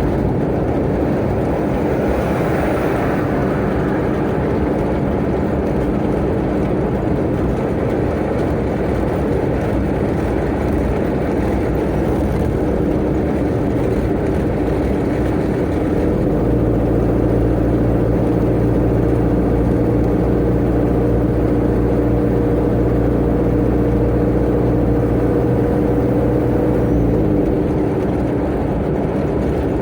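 Tata Ace mini-truck's turbo engine and road noise while driving at speed. A steady droning tone comes in about halfway through and fades out near the end.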